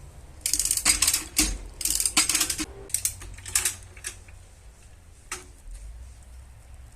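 Metal hand tool clicking and rattling: several bursts of rapid clicks over the first couple of seconds, then a few single clicks further apart.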